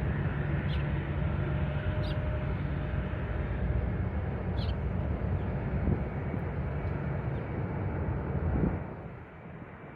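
Jet airliner taking off, a steady low rumbling engine roar that drops away sharply near the end. A few faint bird chirps are heard over it.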